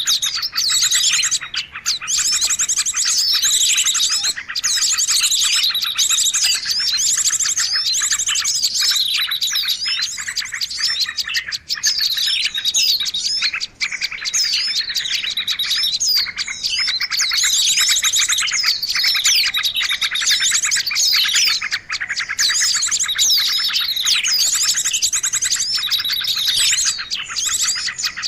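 A dense, unbroken chorus of many small songbirds chirping and twittering in quick falling notes. It is a lure recording of the kind played to draw small birds in for trapping.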